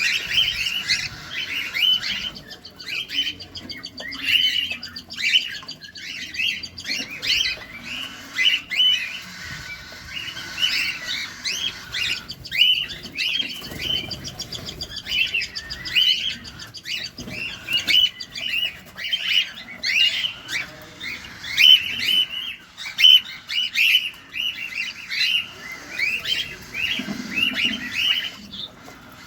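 Cockatiels chirping, a dense run of short, quickly repeated chirps that hardly pauses.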